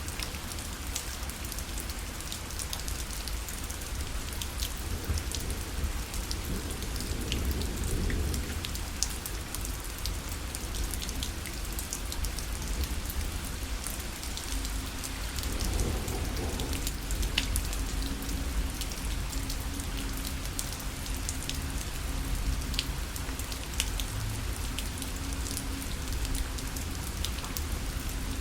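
Rain falling steadily on a parasol, a continuous patter with many separate drops tapping the fabric.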